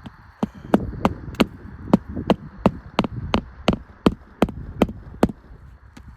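A run of about fourteen sharp, evenly spaced knocks, roughly three a second, stopping about a second before the end.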